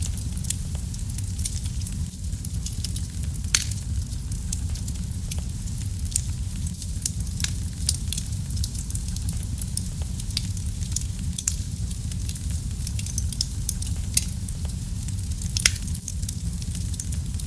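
Wood fire burning in a fireplace: a steady low rumble of flame with dense, irregular crackling and a few louder pops.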